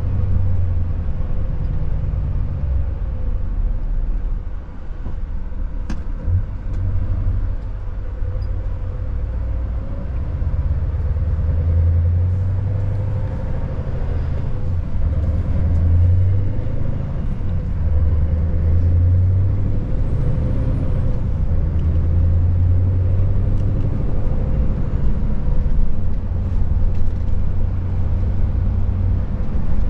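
Scania S580's V8 diesel engine running as the truck drives along, with a low drone that swells and eases every few seconds over steady road noise and a faint steady whine.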